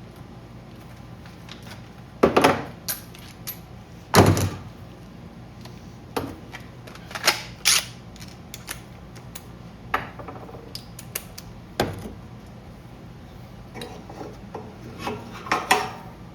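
Valve cover and gasket of a small generator engine being handled and fitted on a workbench: scattered knocks and clinks of metal parts, a few seconds apart, with a cluster near the end.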